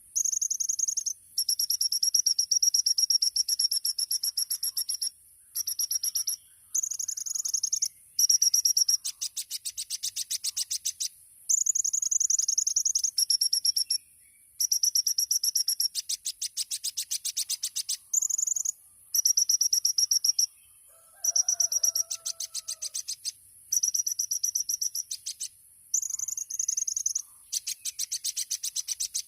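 Kolibri ninja (Van Hasselt's sunbird) singing a high-pitched song. Short held whistled phrases alternate with fast rattling trills of rapidly repeated notes, the 'tembakan' bursts that bird keepers prize, with brief pauses between phrases.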